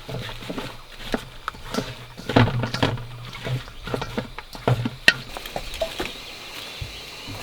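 A run of irregular knocks and taps for about five seconds, then quieter with a steady high-pitched tone.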